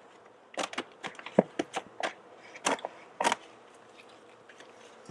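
Stiff tar paper being cut with scissors and handled: a run of irregular sharp crinkles and snips over the first three and a half seconds, then a few faint ticks.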